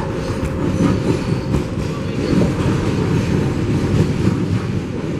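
R188 subway car of a 7 train running on the track, heard from inside the car: a steady, loud rumble from the wheels and motors, with faint clicks as the wheels pass over the rail joints.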